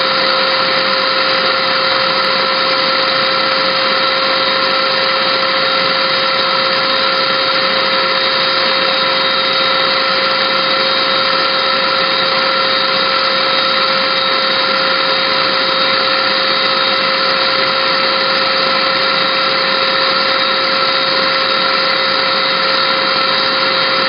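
Small Hoover vacuum cleaner's motor running steadily with an unchanging whine, with mineral spirits poured into it being vaporized.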